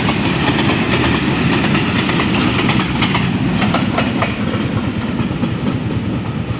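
A train passing close by on the tracks: a loud, steady rumble with wheel clicks over the rail joints. The clicks thin out after about four seconds and the sound eases off a little near the end.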